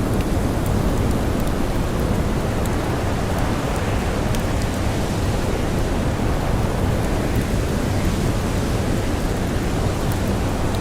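Blizzard wind blowing steadily with blowing snow: a dense, even noise heavy in the low end that never lets up, with faint scattered high crackles from a campfire.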